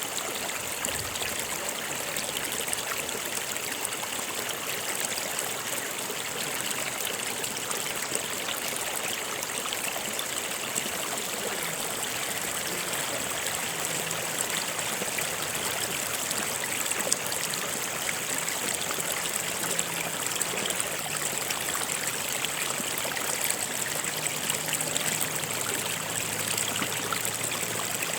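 Stream water flowing and trickling over rocks, a steady rushing with small splashes.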